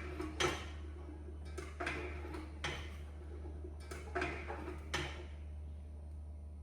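A handful of short knocks and scrapes, about a second apart, like heavy objects being handled and set down, over a steady low hum.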